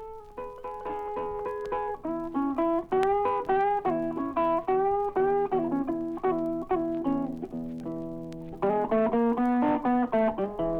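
Solo blues guitar playing a song's intro: single picked notes with bends, the first one sliding up, a held note dying away about three-quarters through, then a quicker run of notes near the end.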